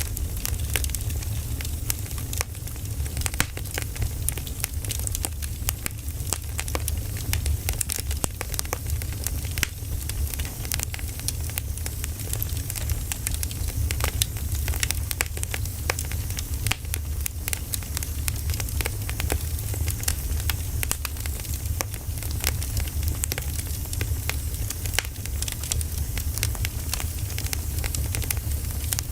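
Wood fire burning, crackling with frequent sharp pops and snaps over a steady low rumble.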